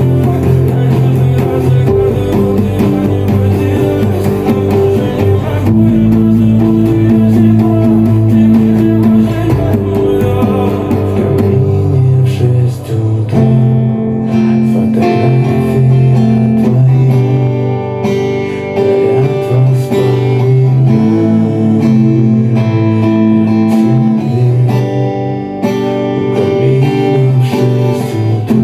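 Music: a guitar playing the chords of a pop song, each chord held for a couple of seconds before the next.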